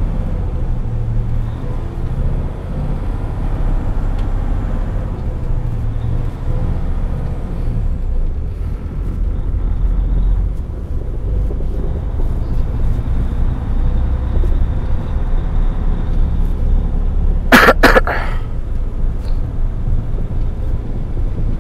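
Semi-truck diesel engine and road noise heard inside the cab while driving without a trailer: a steady low rumble whose pitch shifts now and then. A brief loud burst stands out about four seconds before the end.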